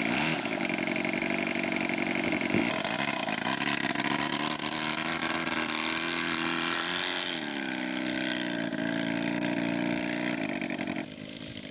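Engine of a 1/3-scale model Nieuport 17 running steadily. Its pitch dips and recovers about seven seconds in, and it drops to a quieter, lower setting near the end.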